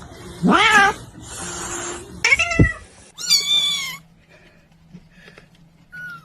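Domestic cat meowing three times in quick succession, each a loud, drawn-out call that rises and then falls in pitch.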